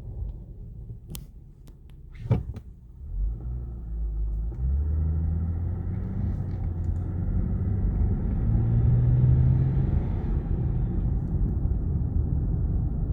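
2012 Lexus IS250 running on the road: a low drivetrain and engine rumble builds as the car gains speed from about three seconds in, its tone rising and then easing slightly near the end, with two sharp clicks in the first few seconds. The car is being driven to show a front differential noise on deceleration.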